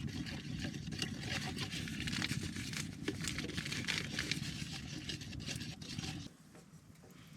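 Spoon scraping and clinking against a pot while preparing quick oats, over a steady low rumble that cuts off suddenly about six seconds in.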